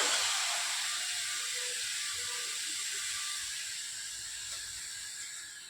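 Servo motors of an InMoov 3D-printed humanoid robot whirring as its arms move into a pose, a hissy gear whine that slowly fades away.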